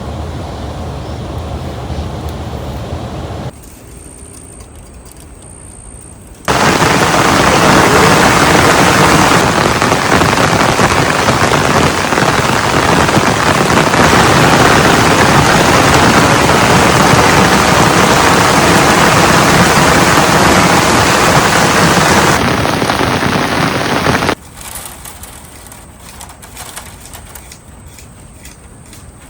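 Heavy rain making a loud, even rushing hiss that cuts in abruptly a few seconds in and cuts off just as abruptly near the end, with quieter stretches either side.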